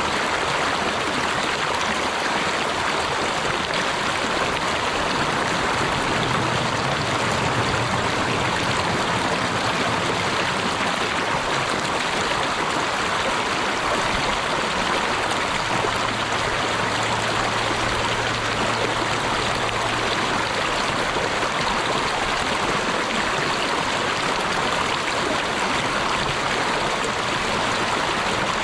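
Flowing water rushing steadily and evenly, like a brook or stream running over rocks.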